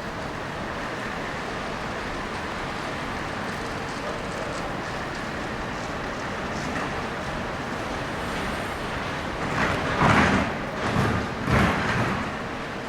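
City street traffic on wet roads: a steady hum of vehicles, with three or four louder, uneven surges about ten seconds in as something passes close.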